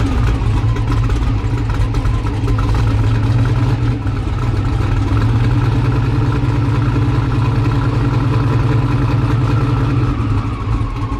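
Turbocharged drag car's engine idling steadily, heard from inside the car, while its oil pressure reads low at about 15 psi; the crew jokes about bearings, suspecting bearing wear.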